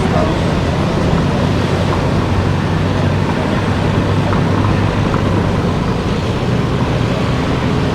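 A car driving steadily, with a constant low engine hum and tyre and road noise.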